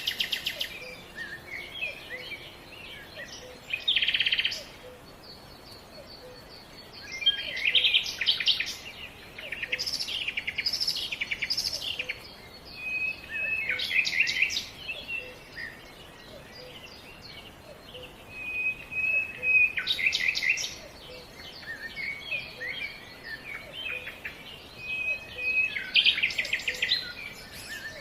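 Songbirds singing outdoors: fast trilled phrases come every few seconds, with short whistled notes in between. A faint, evenly spaced low tick runs underneath.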